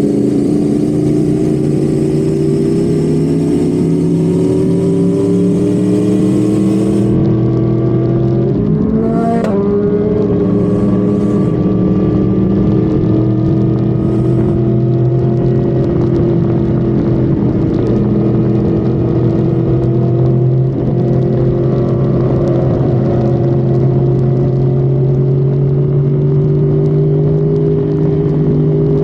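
Honda Civic FD's engine heard onboard under sustained acceleration at highway speed, its pitch climbing slowly. There is one gear change about nine seconds in, after which the revs climb again.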